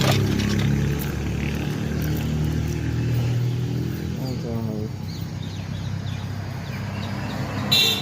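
A motor vehicle engine running with a steady low hum that eases off about halfway, then a brief high-pitched beep near the end.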